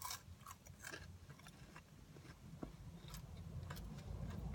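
Faint chewing of food, with small scattered mouth clicks and crunches.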